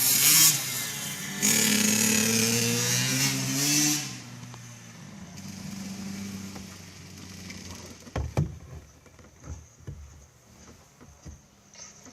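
Two-stroke 85cc dirt bike engine revving hard, its pitch climbing through the gears for about four seconds, then dropping to a quieter, steadier running. A few sharp knocks come about eight seconds in.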